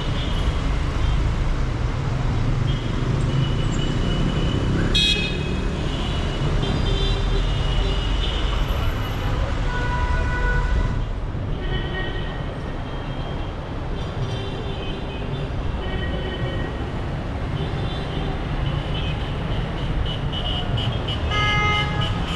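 Dense city street traffic: a steady rumble of engines with car horns honking several times, most clearly a little after ten seconds in and again near the end. A sharp knock about five seconds in.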